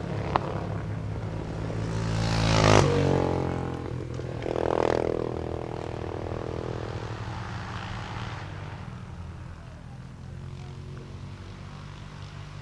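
Flat track racing motorcycles running at speed past the microphone. The loudest pass comes about two and a half seconds in, another swell follows near five seconds, and then the engines fade as the bikes move away around the track.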